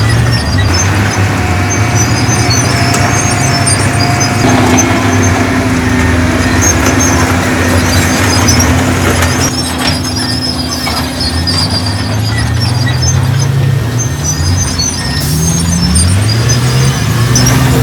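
Heavy diesel earthmoving machinery running, its engine note rising and falling repeatedly as it works under load. A thin high squeal sounds for about three seconds near the start.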